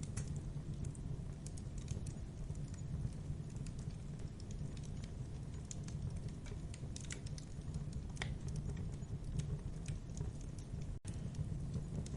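Wood fire crackling in a fireplace: irregular sharp pops and snaps over a steady low rumble of the flames, with a split-second gap near the end.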